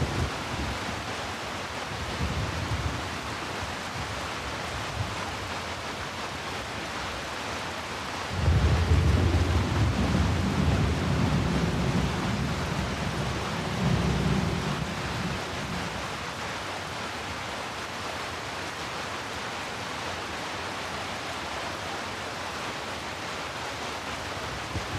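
Steady heavy rain hissing, with a long low roll of thunder that starts about eight seconds in, swells again a few seconds later, and dies away.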